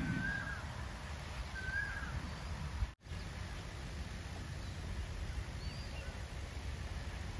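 Open-air ambience: steady low background noise with birds giving short chirping calls twice in the first two seconds and once faintly later. The sound cuts out for an instant about three seconds in.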